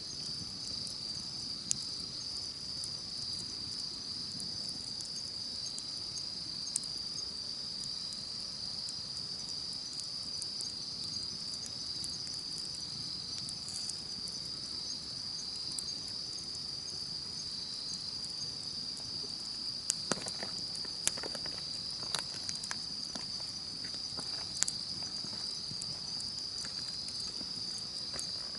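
A steady, high insect chorus trilling without pause, over a campfire crackling with scattered sharp pops that come more thickly about twenty seconds in.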